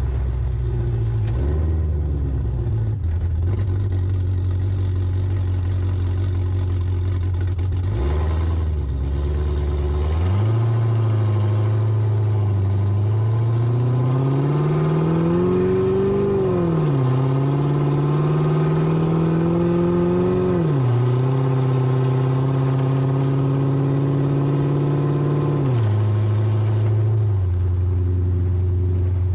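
Car engine and drivetrain heard from under the car over road and wind noise, pulling under load: the drone rises slowly in pitch and drops sharply a little past halfway and again about two-thirds of the way through, like gear changes, then settles lower near the end. The owner is chasing a shake under load, worst at 40–50 mph in a low gear, which he suspects comes from an axle or the driveshaft.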